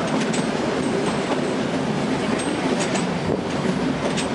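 Steady rumble of a narrow-gauge toy train running, heard from inside a passenger coach, with a few sharp clicks of the wheels over the track.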